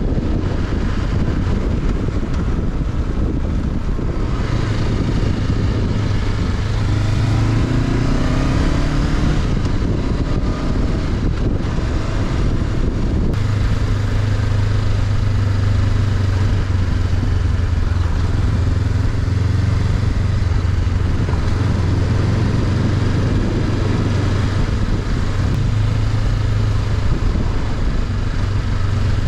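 Honda CB500X's 471 cc parallel-twin engine running under way, heard onboard with wind rush. The engine note climbs a little about four seconds in, changes abruptly around thirteen seconds in, then holds steady.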